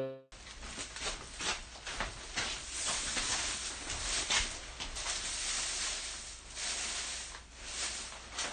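Steady hiss with scattered irregular clicks and crackles.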